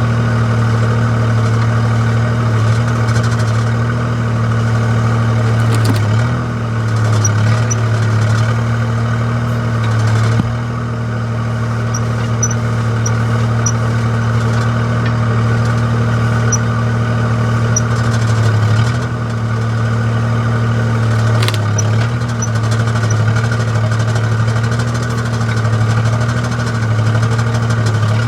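Wacker Neuson 2203 mini digger's diesel engine running steadily. Its note dips briefly a few times, and there are a few sharp knocks.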